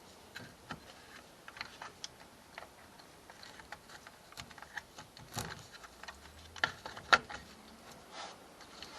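Scattered light plastic clicks and taps from handling a toy RC bulldozer and its battery pack, irregular, with two sharper clicks past the middle.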